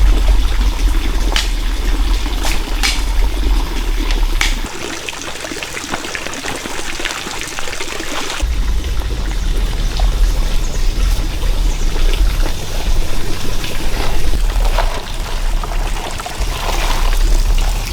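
Water pouring and trickling, over a low rumble that drops away for a few seconds in the middle. A few sharp clicks come in the first few seconds.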